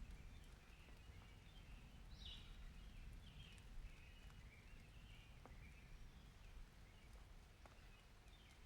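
Very faint rain ambience: a low rumble, scattered drop ticks, and short, irregular high chirps or squeaks throughout.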